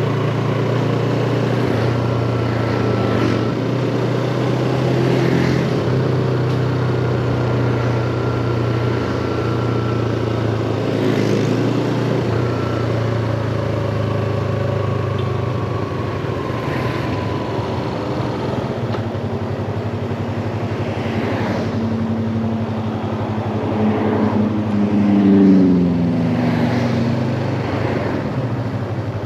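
Yamaha MT-25 motorcycle's parallel-twin engine running at steady cruising revs, with wind and road noise. About 25 s in there is a short louder swell whose pitch falls.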